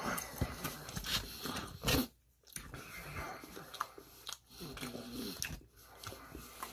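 Close-up chewing and biting: wet mouth sounds and irregular smacks of a person eating vermicelli noodles with shredded vegetables, with one louder smack about two seconds in.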